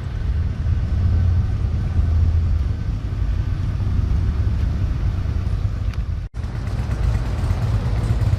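Motorcycle on the road, a steady low rumble of engine and wind. The sound cuts out briefly about six seconds in, then resumes.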